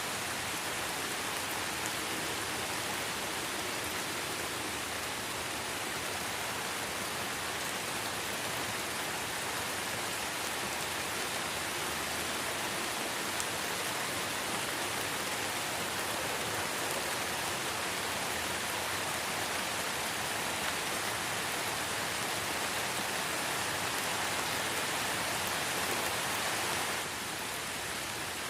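Light rain falling steadily in a forest, an even hiss of many small drops. It drops a little in level near the end.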